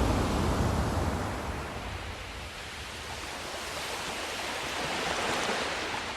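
Ocean surf: waves rushing in. A wave breaks loudest in the first second and eases off, and a second wave swells in about five seconds in and fades again.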